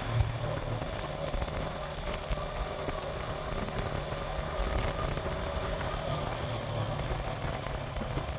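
Suzuki GN125 motorcycle's single-cylinder four-stroke engine running steadily.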